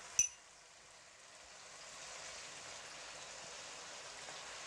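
Chicken cubes frying in oil in a wok: a faint, steady sizzling hiss that grows a little louder after about a second. A single short metallic clink sounds right at the start.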